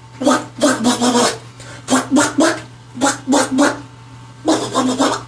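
Beatbox duck sound: raspy, quack-like bursts made by forcing air out past both sides of the back teeth with strong friction while the lips open from rounded into a 'wa' shape. It comes in about five short groups with brief gaps between them.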